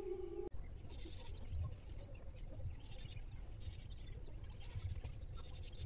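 Faint, scattered bird chirps over a low background rumble, with a steady hum that cuts off about half a second in.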